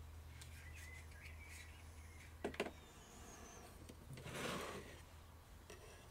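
Small objects handled on a hobby workbench: one sharp click about two and a half seconds in and a short rustle a little past four seconds, over a low steady hum.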